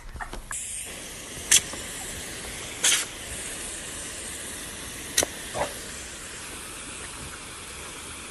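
A steady hiss of rushing air or spray, with a few sharp clicks over it.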